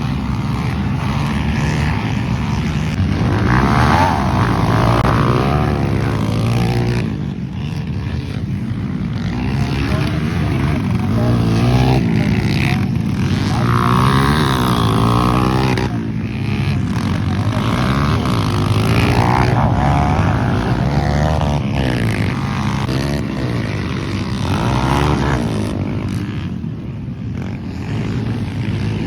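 Dirt bike engine revving up and easing off over and over, its pitch rising and falling every few seconds.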